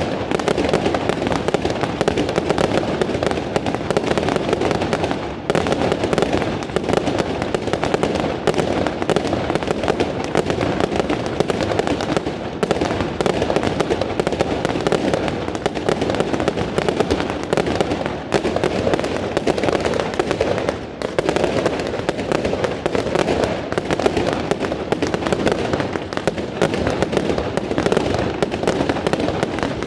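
Fireworks display at its height: a dense, continuous barrage of bangs and crackling, the reports running together almost without a gap and easing only briefly a few times.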